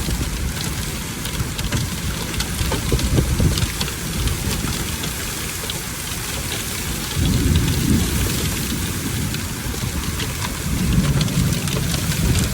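Heavy rain with hail, a dense patter of hard drop and hailstone impacts. Low rumbles swell up a few times, around the middle and again near the end.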